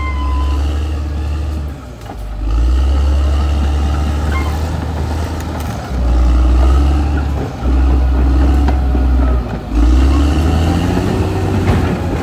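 Caterpillar D6R XL bulldozer's diesel engine working under load: a steady low rumble that drops away briefly three times.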